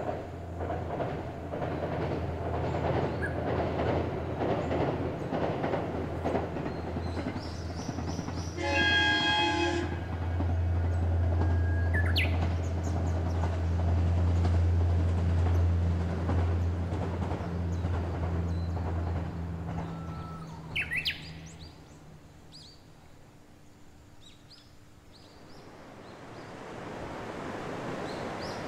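JR HC85 series-hybrid diesel train running past with a steady low engine drone, sounding its horn once for about a second and a half about nine seconds in. The train's sound fades away after about twenty seconds.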